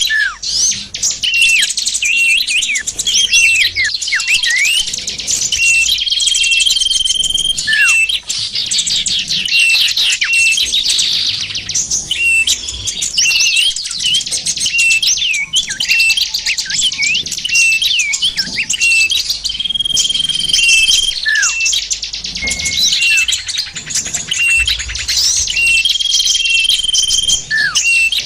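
Dense mix of many small songbirds chirping, trilling and giving quick falling whistles, in the manner of a bird-lure (pikat) recording of several small wild species. A held, level whistle note comes back a few times among the chatter.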